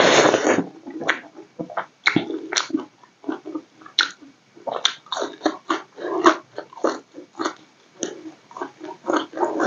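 Close-miked mouth sounds of a person eating with her fingers: wet, smacking chewing and biting of rice and batter-fried vegetables, in many short, quick clicks. The loudest sound is a longer, noisy crunch right at the start.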